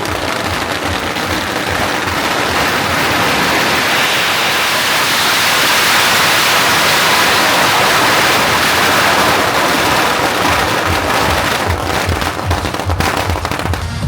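A long string of firecrackers going off in a continuous dense crackle. It swells to its loudest in the middle and thins out near the end.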